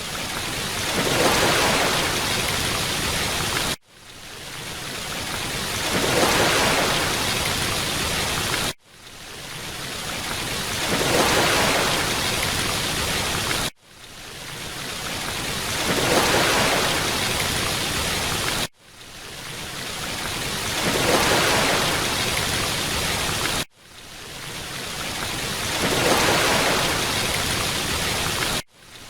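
Rushing water, a dense even hiss like a waterfall or heavy rain, in a short loop: about every five seconds it cuts out abruptly, then swells back in over a second or two and holds steady until the next cut.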